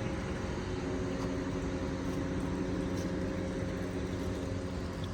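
A steady machine hum with several low held tones, unchanging throughout.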